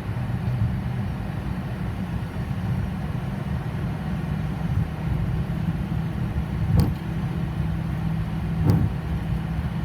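Steady low rumble inside a Boeing 737's cockpit with the engines running, and two short clicks about seven and nine seconds in.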